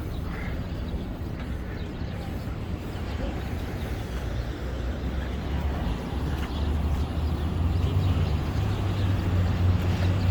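City street traffic: a steady low rumble of passing vehicles that grows louder in the second half as a vehicle draws near.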